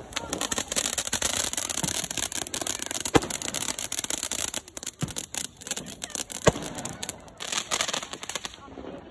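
Fireworks crackling in a dense rapid run of pops, with single louder bangs about three seconds in and again about six and a half seconds in; the crackling dies away shortly before the end.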